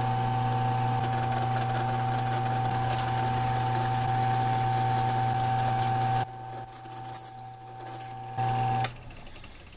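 Electric drill with a 6mm carbide bit running steadily at one pitch while boring slowly into a guitar headstock. It shuts off about six seconds in, then runs briefly again near the end.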